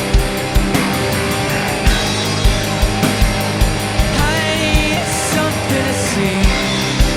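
Live rock band playing: distorted electric guitars and bass over a steady drum beat with the kick about twice a second and crashing cymbals, with some singing.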